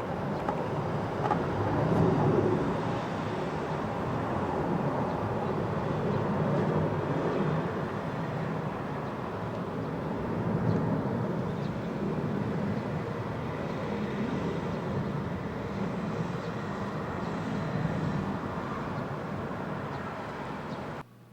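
Jet noise from the twin Rolls-Royce Trent 700 turbofans of an RAF Airbus Voyager (A330 MRTT) departing: a steady, broad rumble that slowly fades as the aircraft climbs away, then cuts off suddenly near the end.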